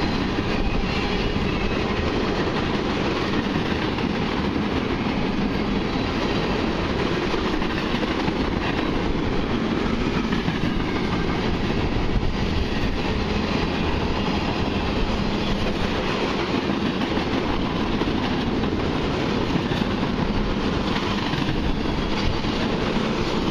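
Empty crude-oil tank cars of a long freight train rolling past at speed: steady wheel-on-rail noise.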